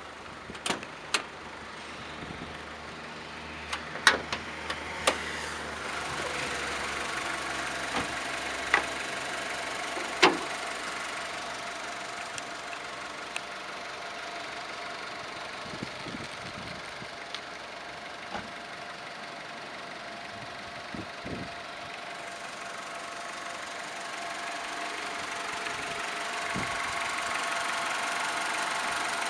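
Honda Civic's four-cylinder engine idling steadily, with several sharp clicks or knocks over the first ten seconds or so.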